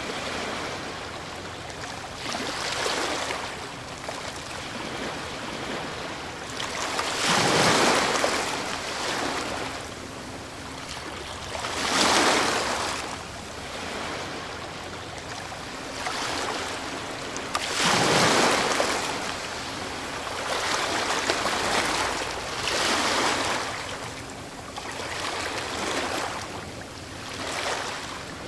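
Ocean waves breaking, six rushes of surf a few seconds apart, each swelling and washing back; the strongest come about a quarter, two fifths and two thirds of the way through.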